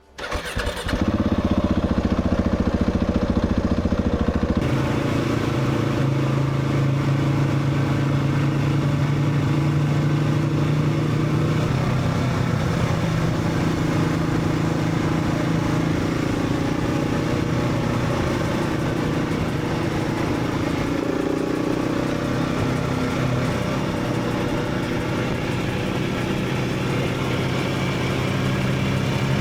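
Motorcycle engine running on the move, starting about a second in. Its note steps and shifts with throttle and gear changes.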